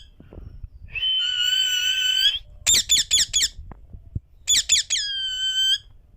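Indian ringneck parakeet calling: a long, steady, high-pitched whistled note, then a quick run of short, sharp chirps that leads into another held whistle.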